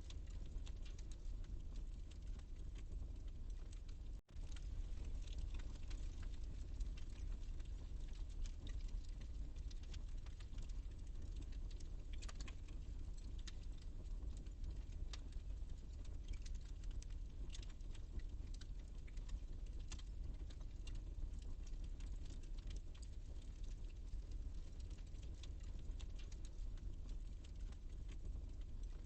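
Wood fire crackling and popping in a fireplace, with irregular small snaps over a steady low rumble. The sound cuts out for a moment about four seconds in.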